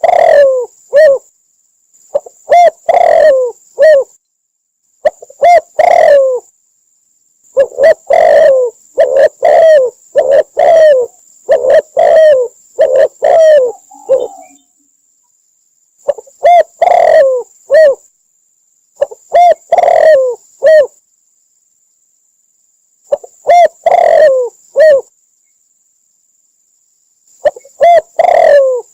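Spotted dove cooing: short phrases of several low, soft coos repeated every two to three seconds, with a longer unbroken run of phrases near the middle.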